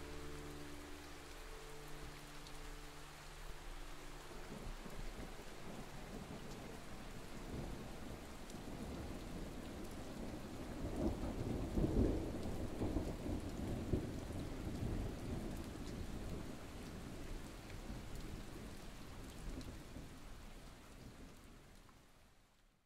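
Steady rain with a long roll of thunder that swells to its loudest about twelve seconds in, then fades out at the end.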